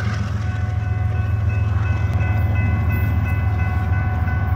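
An approaching diesel freight train: a steady low rumble, with a held chord of several steady high tones sounding over it from about half a second in.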